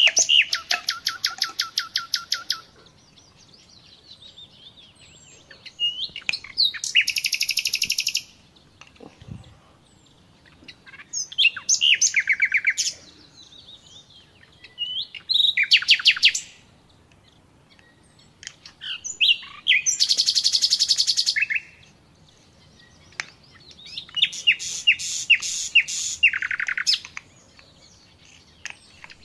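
A small songbird singing: phrases of rapid, high trills, one every three to four seconds, with faint chirps in the gaps between them.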